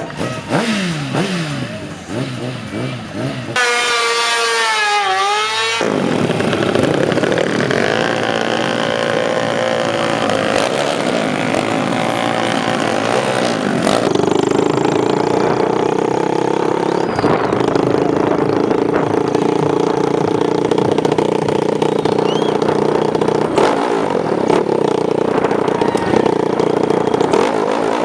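Racing motorcycle engines revving hard, their pitch rising and falling. A loud engine note sweeps down in pitch about four to six seconds in, and from about fourteen seconds a steadier held engine note carries on.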